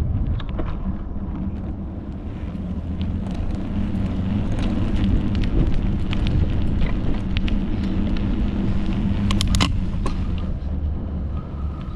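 Steady wind and rolling rumble from riding a bicycle, with scattered clicks and rattles and a short burst of clicking about nine and a half seconds in.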